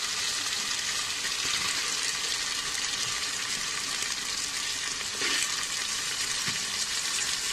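Onion, green chilies and ginger-garlic paste sizzling in hot oil in a pressure cooker as cauliflower and carrot pieces are added, a steady frying hiss with a brief louder sizzle about five seconds in.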